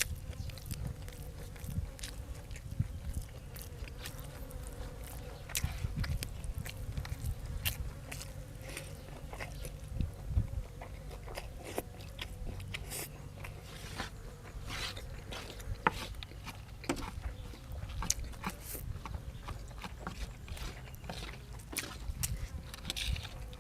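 A person chewing and biting food close to the microphone: irregular wet mouth clicks, smacks and occasional crunches.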